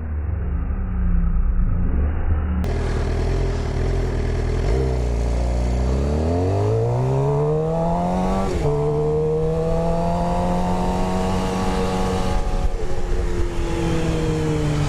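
2015 Suzuki GSX-R 750's inline-four engine through an Akrapovic slip-on exhaust, starting as a low rumble, then revving up as the bike accelerates. About halfway through the pitch drops suddenly at an upshift. The engine then holds steady and eases off a little near the end.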